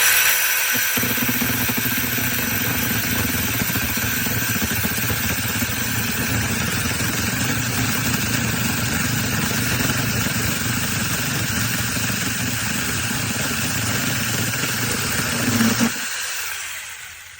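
Battery-powered brushless mini chainsaw running steadily, a constant motor whine over chain noise. It starts abruptly, a deeper sound joins about a second in, and it cuts out about sixteen seconds in.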